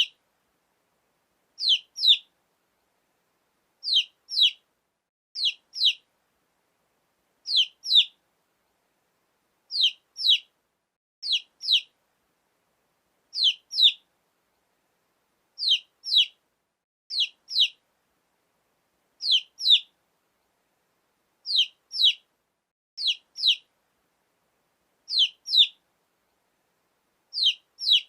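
Domestic chicken chicks peeping: short, high peeps in pairs, each peep sliding downward, with a pair about every one and a half to two seconds and silence between.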